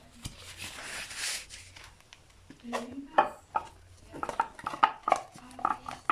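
Metal parts of a brake booster being handled and worked: a brief scraping noise about a second in, then a run of light metallic clinks and knocks.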